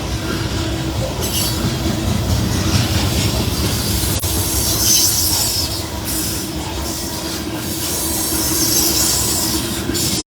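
Loaded coal hopper cars of a freight train rolling past: a steady rumble of wheels on rail, with a high hissing wheel squeal that comes and goes in stretches of a second or two.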